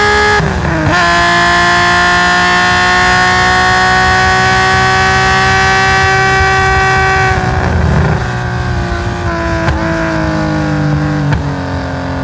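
Nissan S20 twin-cam straight-six in a race-tuned Hakosuka Skyline GT-R, heard onboard. It pulls at high revs, with a quick upshift about half a second in, and holds the high note for several seconds. Then it lifts off, and the revs fall through a series of sharp blipped downshifts on the sequential gearbox, as the car brakes for a corner.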